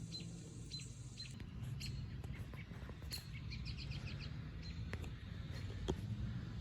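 Birds chirping over a faint low hum, with a quick run of rapid chirps about two seconds in.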